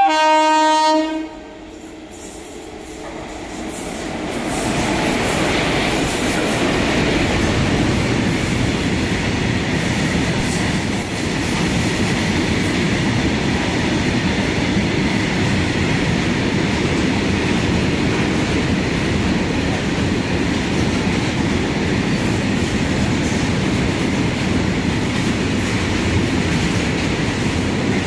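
Train horn sounding one short blast, then the train running on the rails, its noise building over a few seconds and then holding loud and steady.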